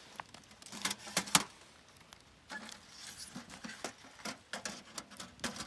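Objects being handled and set down by hand: irregular clicks and knocks, the sharpest about a second and a half in.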